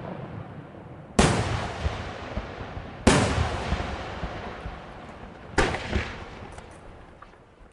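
Senatore Fireworks aerial shells bursting: three loud bangs about two seconds apart, each followed by a long fading echo. A few faint crackles follow the last one.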